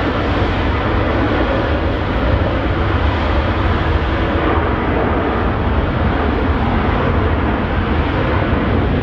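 Jet airliner's engines, loud and steady, with no clear rise or fall in pitch.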